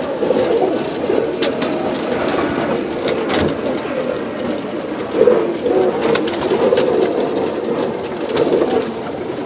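Many birds calling at once: low, overlapping calls that run on without a break, with a few sharp clicks between them.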